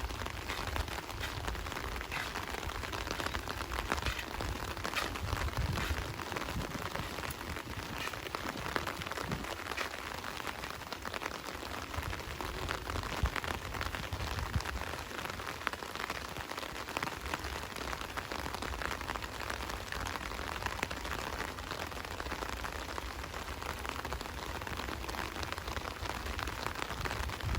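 Steady rain falling, with a dense patter of individual drops and a low steady rumble underneath.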